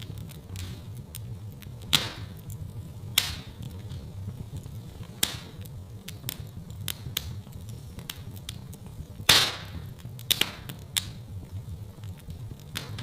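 Wood fire crackling in a fireplace: irregular sharp pops and snaps over a steady low rumble, with the loudest pop about nine seconds in.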